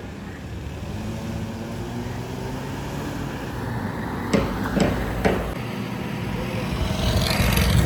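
A car engine running steadily at low revs, with three short sharp clicks about four to five seconds in, and a louder rush of noise near the end.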